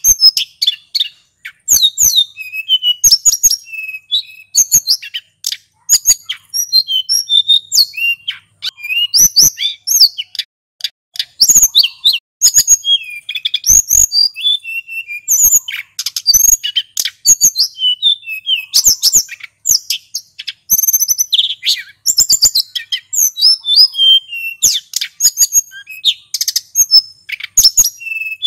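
Male sulingan gunung singing without pause: a rapid, unbroken run of high-pitched twittering notes and short whistled glides.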